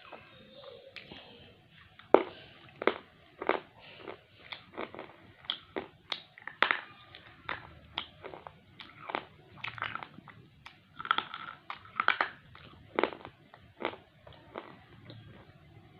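Slate pencil being bitten and chewed: sharp, irregular crunches, roughly one or two a second.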